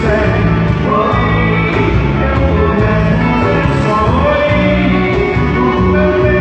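Live band music: a voice sings over guitar and a bass line that changes notes every half second or so.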